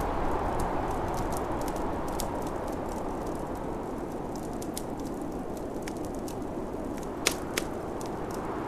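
Wood fire crackling with scattered sharp pops over a steady rush of snowstorm wind; two louder pops come about seven seconds in.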